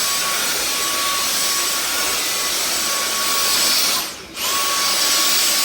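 Dyson DC44 Animal cordless stick vacuum running with a steady high whine and rush of air. About four seconds in it cuts out for a moment, then runs again.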